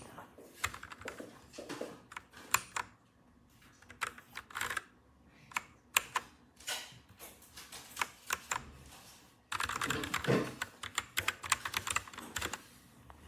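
Typing on a mechanical keyboard: irregular key clicks and clacks, with a faster, denser run of keystrokes in the second half.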